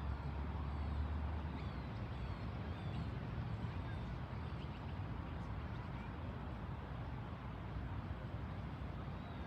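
Beach ambience: a steady wash of surf with a low rumble in the first second or so.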